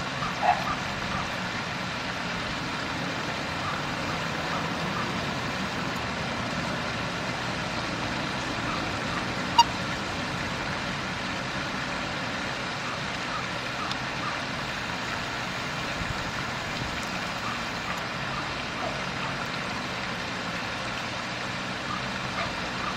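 Birds giving short, faint calls over a steady rushing background noise. A louder call comes about half a second in, and a single sharp note near ten seconds.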